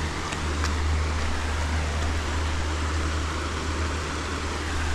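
River water rushing steadily, an even hiss over a heavy low rumble.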